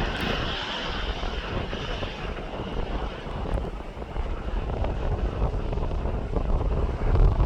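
Airliner engine noise, a high whine that fades over the first couple of seconds, with wind buffeting the microphone in low rumbling gusts.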